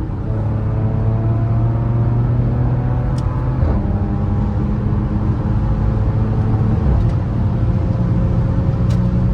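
Car engine with both mufflers removed, accelerating hard from a launch: the exhaust note climbs steadily in pitch, drops back about four seconds in at a gear change, then climbs again.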